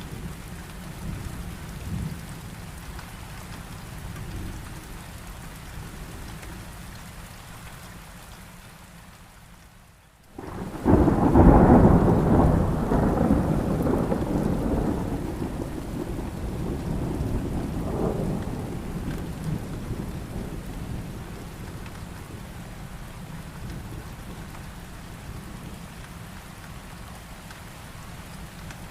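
Steady rain with a long roll of thunder. About ten seconds in, the sound dips away for a moment, then a loud thunderclap breaks in and rumbles down over about ten seconds. It swells once more before fading back under the rain.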